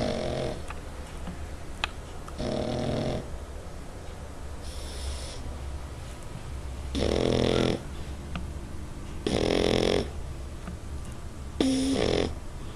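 French bulldog snoring, a short rasping snore about every two seconds.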